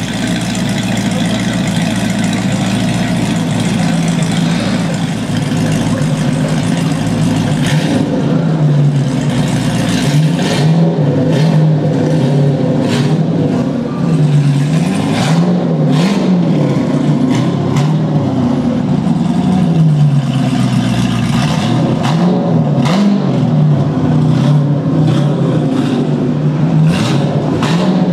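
Mazzanti Evantra's 7-litre V8 idling, then from about eight seconds in revving up and down again and again as the car is manoeuvred at low speed, with short sharp cracks over the revs.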